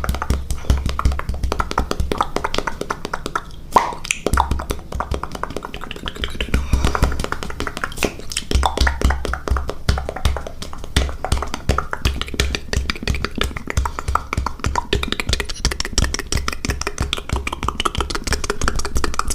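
ASMR mouth sounds: rapid, wet clicking and popping made with the mouth, in a dense, uneven stream.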